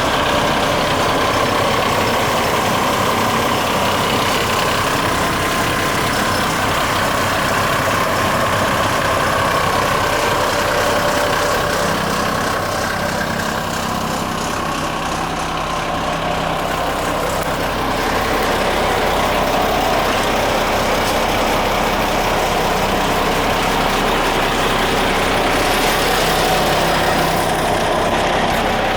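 Renault Midlum 220 dCi truck's diesel engine running steadily, with a steady whine above the engine note.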